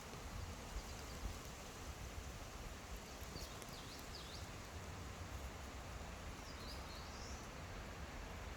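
Forest ambience: a steady hiss with a low rumble, and a small bird giving a few faint high chirps twice, once a little before halfway and again near the end.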